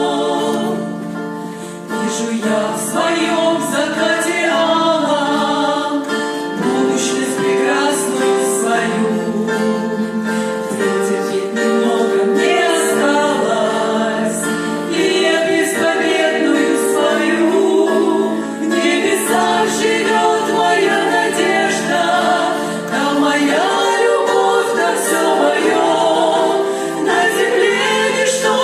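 Church praise group singing a Christian worship song in several voices, sustained and steady throughout.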